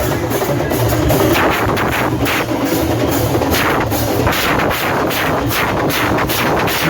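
Loud live drumming from a procession band, the drums beating densely and without a break.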